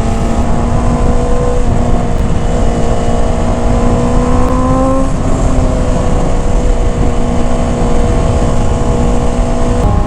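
Motorcycle engine running under way over heavy wind rush; its pitch climbs slowly and then drops about five seconds in.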